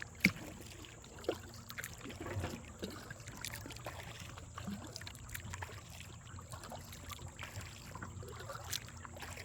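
Kayak paddling: paddle blades dipping with small irregular splashes and water dripping, and a sharp knock just after the start.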